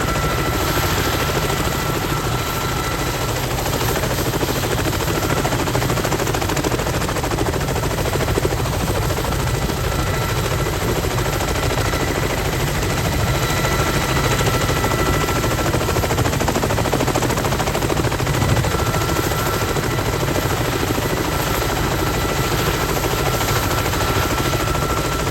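Kamov Ka-32 helicopter running with its coaxial rotors at speed: a fast, even chop of rotor blades over a steady high whine from its twin turboshaft engines.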